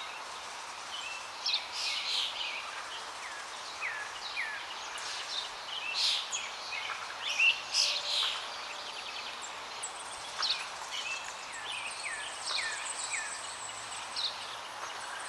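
Small finches chirping: many short high chirps and quick falling call notes, busiest in the middle, over a steady hiss.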